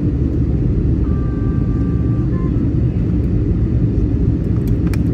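Steady cabin rumble of an Airbus A320-200 in flight on its way to landing: the CFM56 engines and rushing air heard from inside the cabin. A faint steady tone sounds about a second in, and a few faint clicks come near the end.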